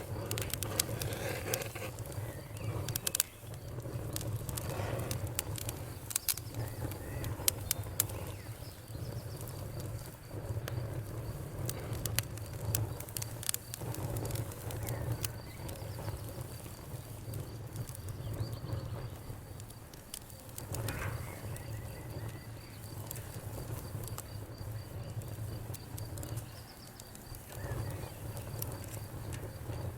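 Wood fire crackling with sharp pops, most frequent in the first eight seconds, over a steady high cricket trill and now and then a bird chirping.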